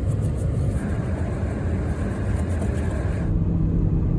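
Pickup truck driving: a steady low engine and road rumble. About three seconds in, the hiss above the rumble stops abruptly while the rumble carries on.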